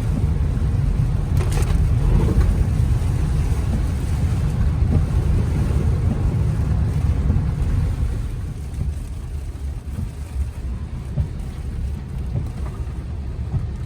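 Inside a moving car on storm-soaked roads: a steady low rumble of tyres and wind, heavy through the first half and easing somewhat about eight seconds in.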